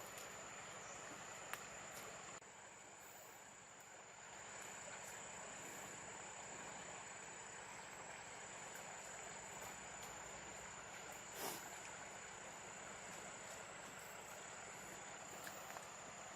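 Insects trilling in one steady high, thin tone, with a few soft clicks and one short louder knock about eleven seconds in.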